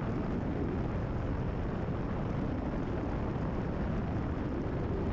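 Cessna 172RG's piston engine and propeller running steadily, an even drone heard from inside the cockpit.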